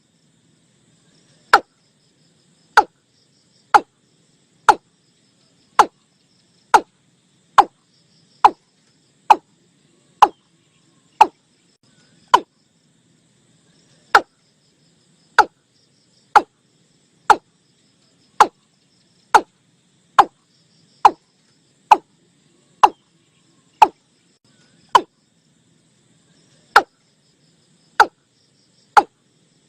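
Male watercock calling: short hollow notes, each dropping in pitch, repeated about once a second with a couple of brief pauses.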